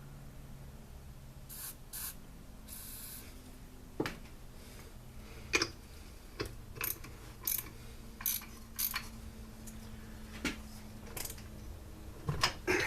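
Hand tools and small-engine parts being worked during a teardown: scattered clicks, light metal knocks and scrapes, with a few short hisses or rasps near the start.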